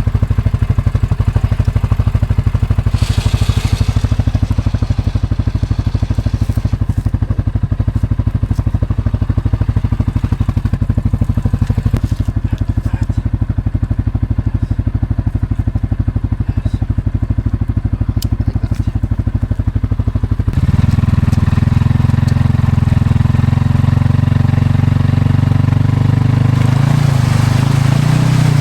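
CFMOTO CForce 600 ATV engine running steadily at low revs, then picking up revs about two-thirds of the way through, louder and higher in pitch. A short hiss a few seconds in.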